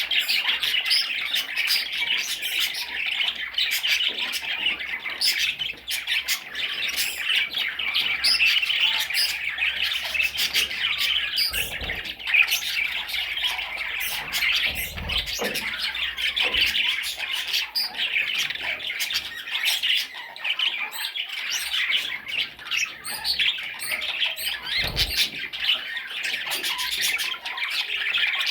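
Budgerigar warbling and chattering without pause: a dense run of chirps, squawks and clicks. A few low thumps come in about halfway through and again near the end.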